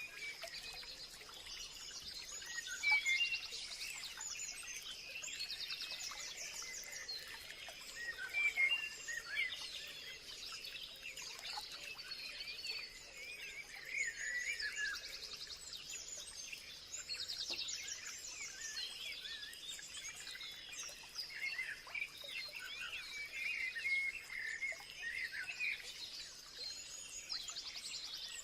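Several songbirds chirping and singing at once in a continuous, overlapping chorus of short calls and trills, over a steady thin high-pitched tone.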